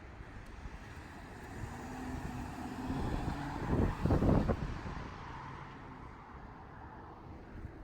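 A road vehicle passing by: a rushing noise that grows louder to a peak about four seconds in, then fades away.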